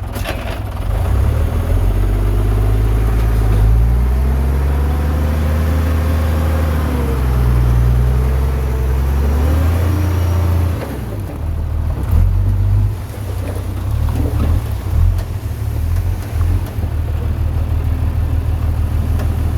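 Heavy diesel engine of earthmoving machinery working under load, revving up and down several times in the first half, then running lower and unevenly.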